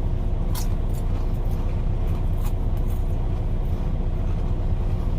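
Steady low rumble of an idling truck engine, with a couple of faint clicks.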